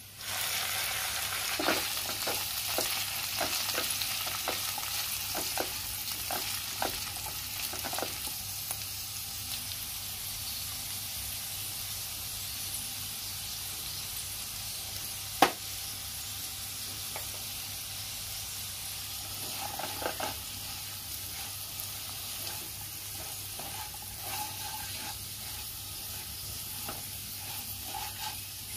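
Potatoes and green beans sizzling in a frying pan, the sizzle starting suddenly as the lid comes off, with a spatula stirring and scraping in a run of clicks. A single sharp knock, the loudest sound, comes about halfway through.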